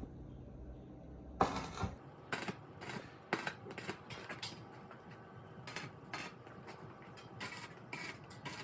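Irregular clicks and clinks of metal parts being handled during workshop work, with one louder, longer scrape or rattle about a second and a half in.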